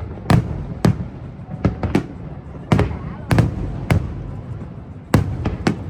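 Fireworks display bursting overhead in an uneven series of sharp bangs, about ten of them, over a continuous low rumble.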